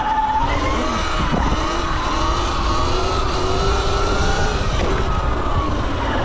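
Dirt bike engine running under way, its pitch climbing gradually over several seconds and then dropping away near the end.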